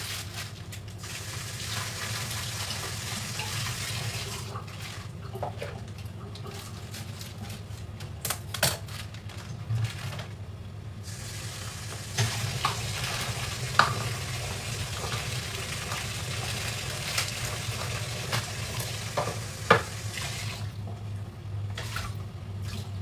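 Garlic sizzling as it fries in oil in a pan, stirred with a metal spatula that clicks against the pan a few times. The hiss dips briefly now and then, over a steady low hum.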